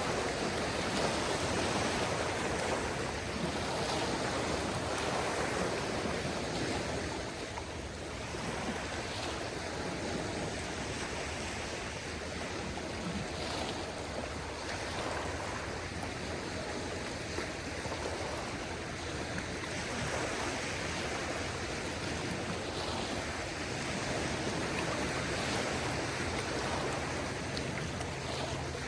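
Calm sea water washing gently on a beach in a steady wash of noise that swells and eases slowly. A faint low steady hum joins near the end.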